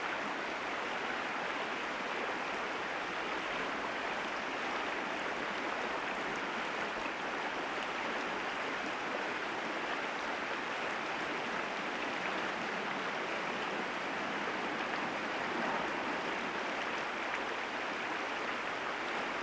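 A mountain river running steadily over rocks, a constant rush of water.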